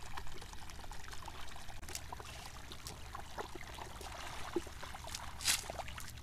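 Shallow water trickling and dripping, with small scattered splashes and a louder splash about five and a half seconds in.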